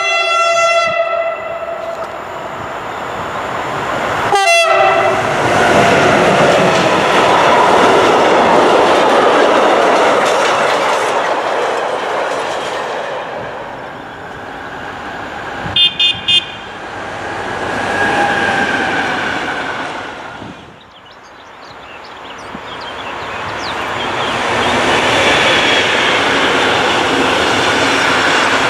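Electric freight locomotive sounding a two-tone horn that steps down in pitch at the start, with a second short horn blast a few seconds later. Freight trains then pass in long swells of rolling wheel and track noise, the second, an intermodal container train, building up loud near the end. Three short high beeps sound about halfway through.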